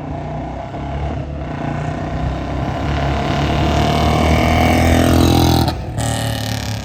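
Royal Enfield Bullet's single-cylinder engine, fitted with an aftermarket dhol silencer, running under throttle as the bike passes. The note grows louder and climbs until about five and a half seconds in, then breaks off sharply and carries on quieter.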